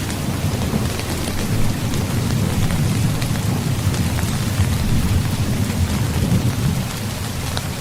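Heavy rain falling steadily, with a continuous low rumble of distant thunder underneath and scattered sharp drop ticks on top.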